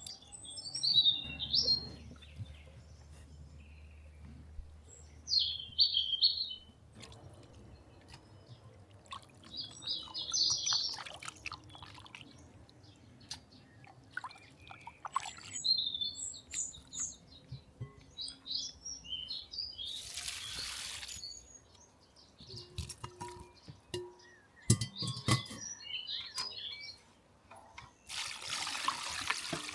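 Small songbirds chirping in repeated short bursts of high calls. A brief rushing noise comes twice, in the middle and near the end, and a few knocks sound a little before the end.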